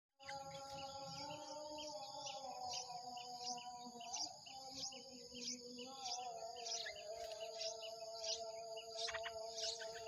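Birds chirping in short high calls repeated at a steady rhythm, about three every two seconds, over a steady hum of long low tones that slowly drift in pitch.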